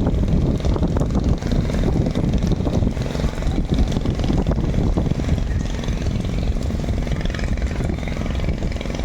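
Longtail boat engine running steadily at close range, a loud low drone with an even engine hum.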